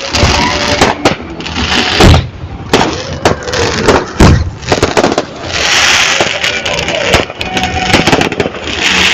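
Large bonfire burning, with many sharp cracks and pops, a couple of heavier thuds, and spells of rushing hiss.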